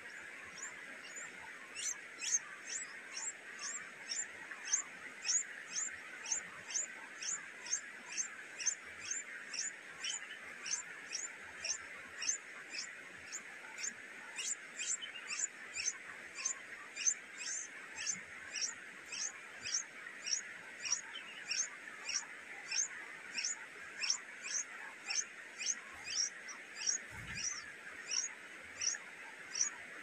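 A bird chirping, one high, short note that falls in pitch, repeated steadily about twice a second over a steady background hiss.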